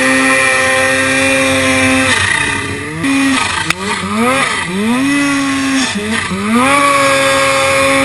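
Turbocharged Polaris Pro RMK snowmobile's two-stroke twin engine running hard at high revs, with the throttle let off and rolled back on about three times so the pitch drops and climbs back up each time. A single sharp click sounds near the middle.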